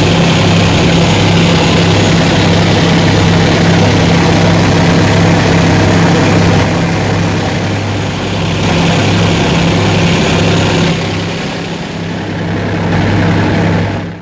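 Boat engine running steadily, a loud low drone with a hiss of water and wind over it, easing off a little partway through.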